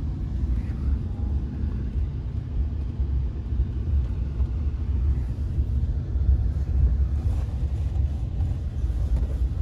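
A car running: a steady, low engine and road rumble.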